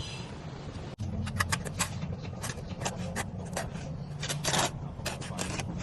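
Hand tool scraping on mortar in short, quick, irregular strokes, a dozen or so, over a steady low rumble.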